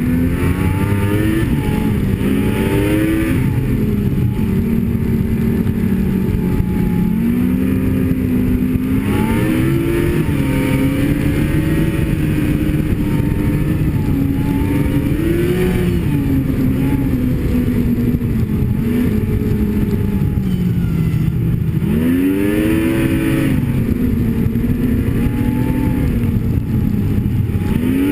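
Snowmobile engine running under throttle, its pitch rising and falling as the rider speeds up and eases off, with several quick revs up, over a steady rumble.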